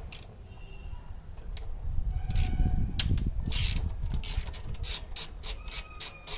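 Mechanical clicking like a ratchet, scattered at first, then an even run of about five clicks a second near the end, with a low rumble around the middle.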